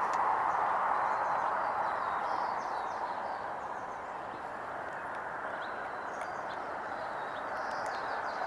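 Steady outdoor rushing noise, with faint, brief bird chirps above it now and then.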